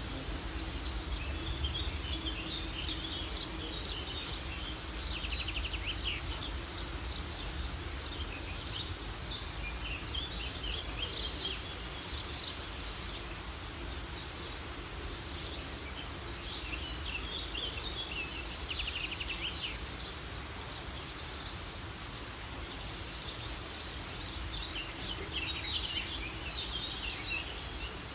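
Outdoor nature ambience: many small birds chirping and twittering in scattered bursts, with a high buzzing insect trill that recurs about every five or six seconds over a low rumble.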